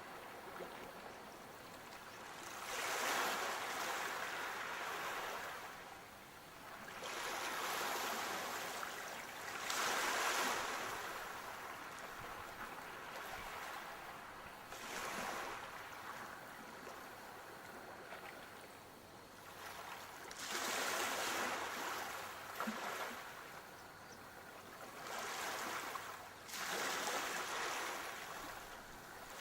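Sea waves breaking and washing up the shore, in slow surges every four to six seconds.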